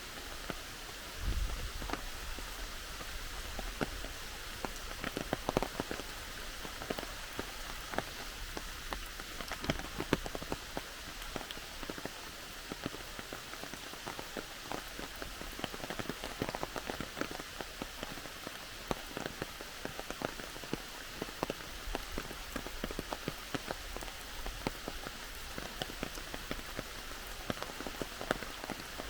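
Steady heavy rain, with many close individual drops ticking. There is a brief low thump about a second and a half in.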